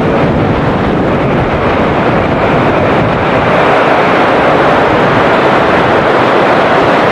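Heavy tropical rain and strong wind buffeting the microphone: a loud, steady rushing noise.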